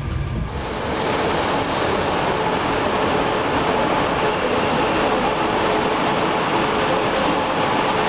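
Red DB electric locomotive hauling a regional train slowly along a station platform: a steady rushing hum with a faint steady whine. A low rumble from inside a moving train cuts off about half a second in.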